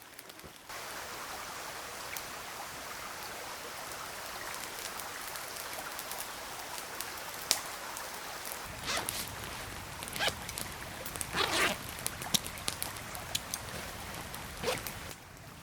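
Steady rushing of a small forest stream, starting abruptly under a second in, with scattered rustles and clicks over it in the second half.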